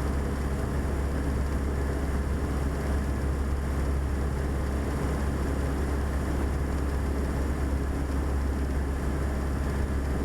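Beechcraft Sundowner's four-cylinder Lycoming O-360 engine and propeller droning steadily at cruise power, heard from inside the cabin.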